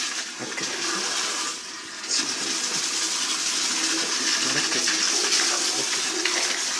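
Water rushing steadily over and through a gas water heater's carbon-clogged coil, washing out the soot; the hiss dips briefly about a second and a half in, then runs on.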